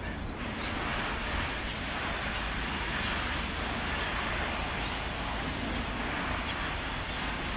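Steady rushing noise of an electric train, led by an E652 locomotive, coming in from a distance, mixed with wind on the microphone.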